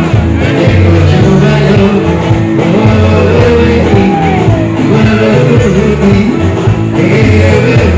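Live band music with singing, loud and continuous, over a steady bass line.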